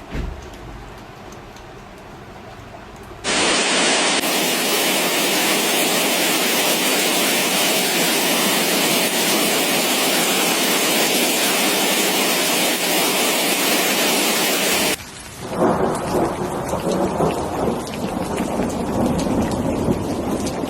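Rain in three abrupt changes: lighter rain at first, then about three seconds in a loud, even downpour, and about fifteen seconds in rain with low rumbling thunder and uneven swells in loudness.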